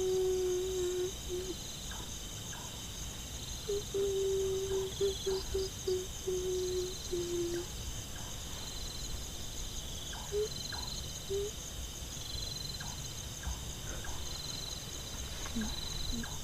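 Night insects chirping steadily, with a low, long wailing tone. The tone is held at the start and returns about four seconds in, breaking into short pieces before stopping at about seven and a half seconds.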